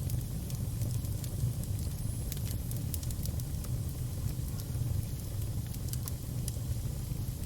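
Crackling fire: a steady low rumble with sharp pops and snaps scattered through it, several coming close together about two to three seconds in.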